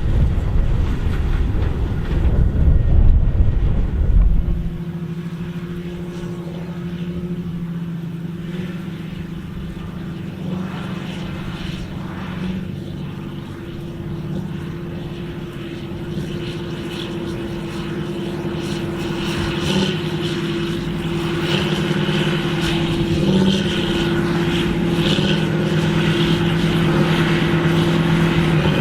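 Large tractor's diesel engine running steadily, growing louder near the end. Wind buffets the microphone for the first few seconds.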